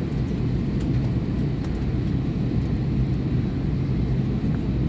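Steady low rumble of an airliner cabin before takeoff, from the engines and air system heard from inside the plane.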